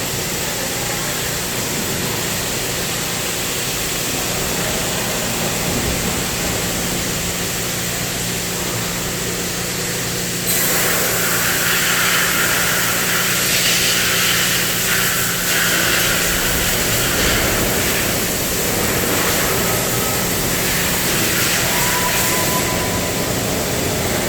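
CNC cutting machine running with a steady hum and hiss; about ten seconds in, a louder hiss starts as the cutting torch fires and cuts.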